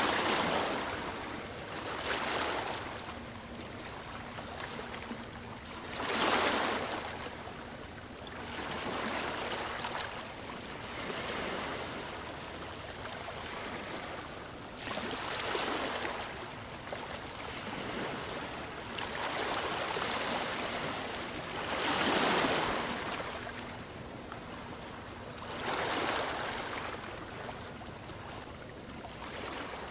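Ocean surf: waves washing in as a steady hiss that swells and fades in surges every few seconds, some surges louder than others.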